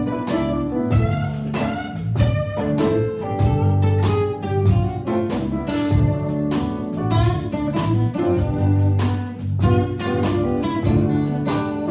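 Live band playing an instrumental passage of a song, with a steady beat.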